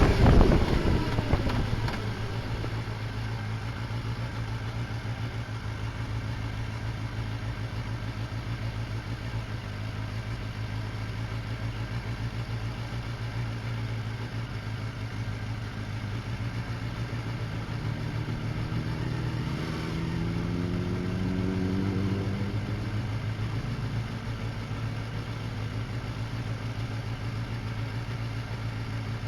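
Honda CBR250RR (MC22) inline-four engine idling steadily, the loud wind and riding noise dying away in the first two seconds. In the second half a second engine note rises in pitch for a few seconds over the steady idle.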